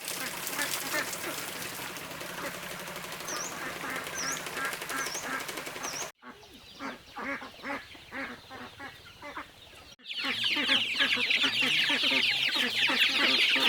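Farm ducks quacking and chickens clucking, in three short clips with sudden cuts between them; the last clip is the loudest, full of dense high-pitched calling.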